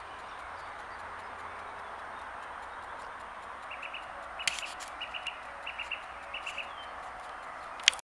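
A small songbird calling short, high chirps in quick clusters of three, repeated every half second or so from about halfway in, over a steady rushing background. A sharp click at the very end.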